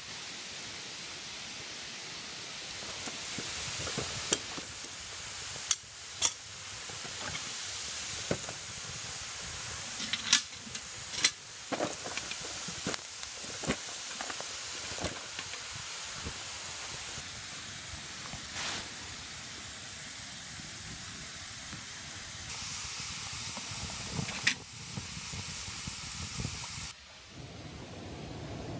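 Wood campfire hissing steadily, with sharp crackles and pops scattered through it. The hiss drops away abruptly near the end.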